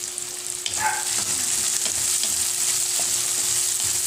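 Chopped garlic, onion and tomato sizzling in hot oil in a pan, stirred with a spatula that scrapes and taps against the pan. The sizzle is steady and gets a little louder about a second in.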